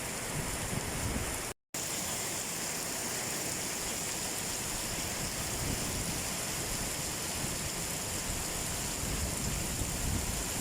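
Heavy rain falling steadily, a continuous dense hiss, cut off briefly to silence about a second and a half in.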